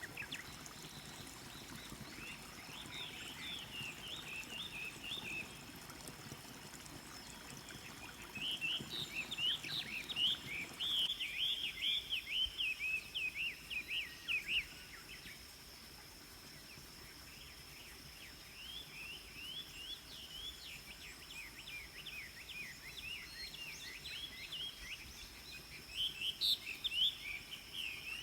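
Small animal giving rapid high-pitched chirping calls in three bouts of several seconds each, the middle and last bouts loudest. A steady high thin tone runs under it, with a faint hiss of flowing water in the first part.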